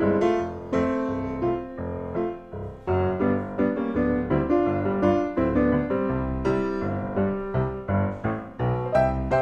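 Light, bouncy silent-film-style piano music: bass notes on the beat under a quick, playful melody.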